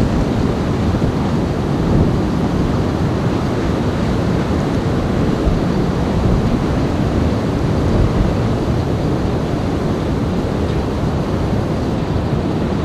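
Strong, gusty wind blowing over the microphone: a steady loud rushing with small swells in loudness, from sustained winds of about 40 mph with higher gusts.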